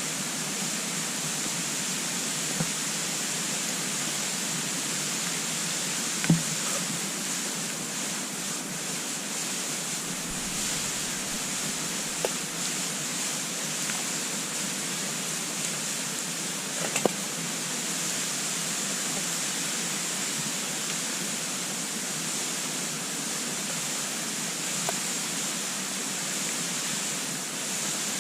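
Wood fire burning in a compact wood-burning stove: a steady rushing hiss with a few sharp crackling pops, the loudest about six seconds in.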